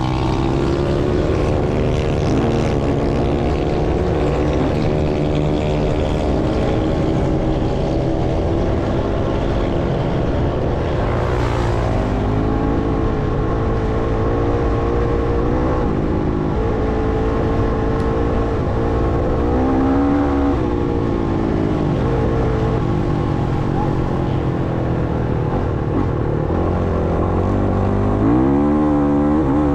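Motocross bike engine running loud as it is ridden, its pitch rising and falling over and over with the throttle and gear changes, with a sharp rev-up near the end.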